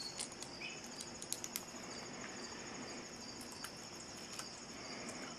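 Insects, such as crickets, trilling steadily and high-pitched, with a few faint clicks scattered through it.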